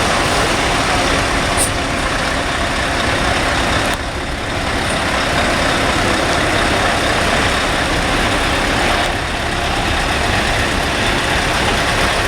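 Heavy truck engines running steadily as trucks drive past in a convoy, with a short dip in loudness about four seconds in.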